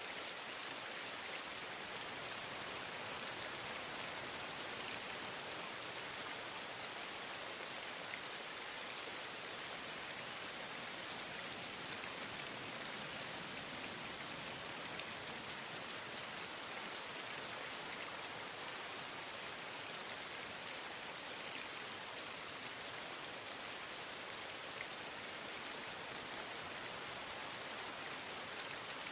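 Steady rain falling: an even, continuous hiss with faint scattered drop ticks.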